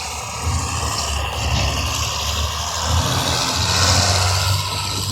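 A large competition vehicle's engine running with an uneven, throbbing low note that swells and eases, under a broad hiss that grows loudest about four seconds in.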